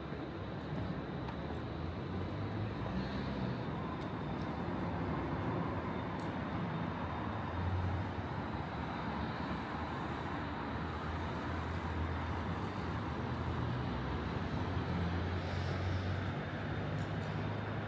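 City street ambience: steady road traffic running past, with a low engine rumble that swells and fades as vehicles pass.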